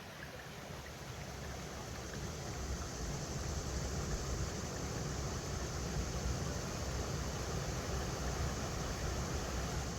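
River water running over rocks: a steady rushing noise with a strong low rumble, fading in over the first few seconds.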